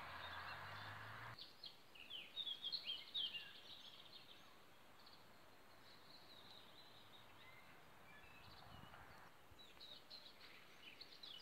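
Faint birdsong: quick high chirps, a cluster about two to three seconds in and more near the end, over near-silent outdoor background. A steady hiss at the start cuts off abruptly about a second and a half in.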